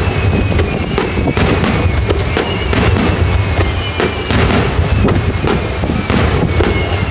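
Fireworks display: many sharp bangs and crackles in quick succession over a continuous low rumble.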